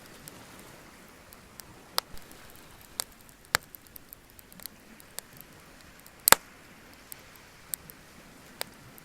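Wood bonfire crackling: irregular sharp pops over a faint steady hiss, the loudest pop about two-thirds of the way through.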